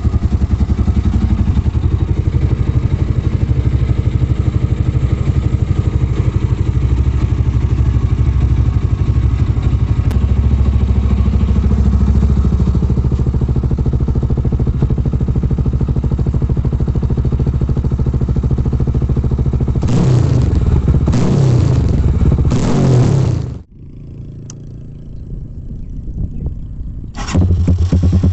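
GPR250 motorcycle engine idling through an aftermarket exhaust with an even, steady pulse, then revved three times in quick succession. The sound then drops away abruptly, and a few seconds later an idling engine comes back just as abruptly, deeper in tone.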